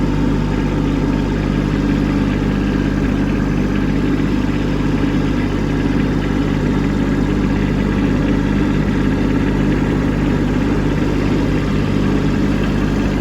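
Kubota B2601 compact tractor's three-cylinder diesel engine running steadily under load while pushing snow with a rear blade.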